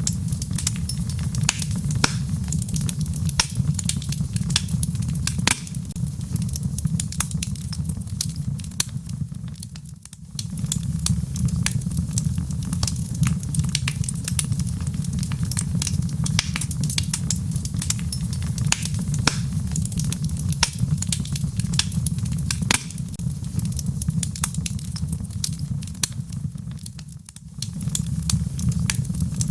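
Log fire in a fireplace crackling and popping, with dense sharp snaps over a steady low rumble of the flames. The rumble drops away briefly twice, about a third of the way in and near the end.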